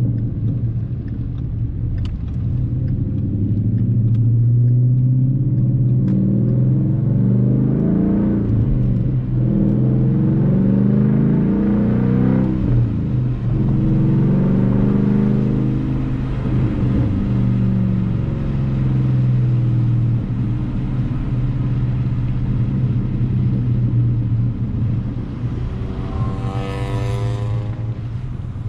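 Ford Mustang GT's 5.0-litre V8 engine running under way, its note rising and falling in pitch and breaking briefly a few times as gears are changed. A short rush of noise sweeps up and down near the end.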